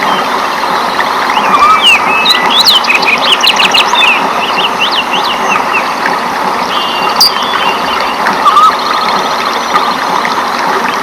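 Rainforest ambience: birds calling in quick runs of rising and falling chirps over a steady hiss.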